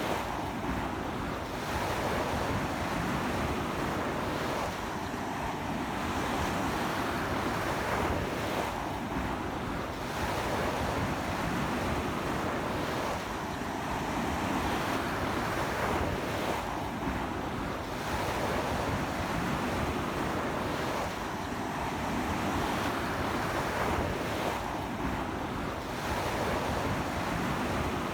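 Ocean waves breaking and washing up a beach in a strong sea wind, a continuous surf rushing that swells every few seconds, with wind buffeting the microphone.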